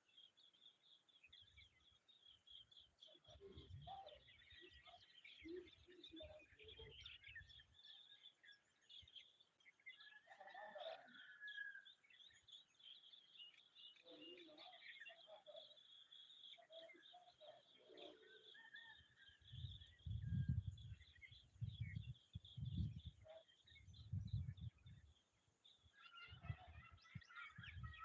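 Faint bird chirps and calls, with a steady high chirping throughout and a few short calls. Low rumbling comes in bouts a few seconds in and again past the middle.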